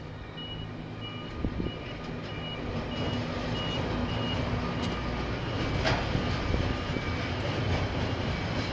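Diesel locomotive approaching, its low engine rumble growing louder. Over it comes a repeating electronic beeping in two alternating pitches.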